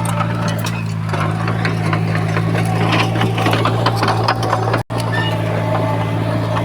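Heavy diesel earthmoving machinery running steadily with a deep, even engine drone, overlaid with irregular metallic clanks and rattles; the sound drops out for an instant just under five seconds in.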